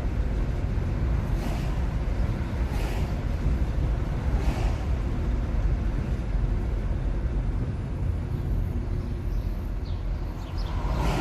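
Steady low road and tyre rumble of a 2021 Nissan Leaf electric car driving, with no engine note, and a few brief swishes in the first half and near the end.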